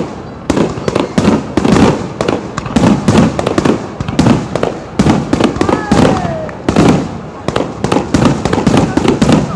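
Aerial fireworks going off in quick succession: many loud, sharp booms and bursts, each trailing off in an echo.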